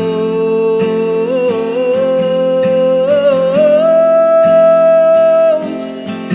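Worship band music with acoustic guitar: a melody of long held notes steps upward, and its highest note is held for about two seconds before it drops away near the end.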